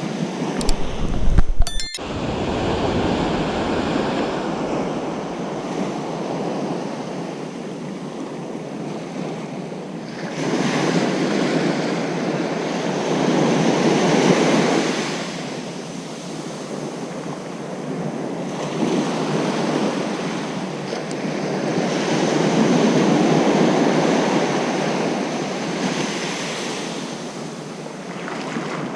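Ocean surf on a beach, waves breaking and washing in slow swells every several seconds, with wind on the microphone. In the first two seconds there is a louder low rumble that ends in a sharp click.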